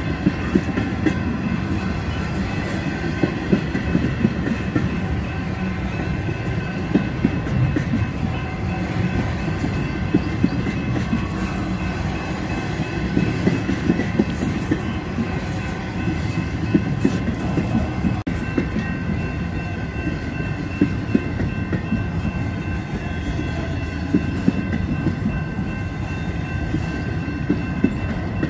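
Freight train of empty intermodal container flatcars rolling past, with a steady rumble and frequent sharp wheel clicks and clacks as the trucks cross rail joints and the crossing. Steady high-pitched ringing tones run underneath.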